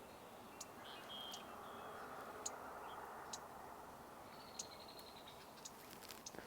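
Faint outdoor ambience: a steady low rushing background with a few soft, sharp ticks and a couple of brief, faint high bird notes.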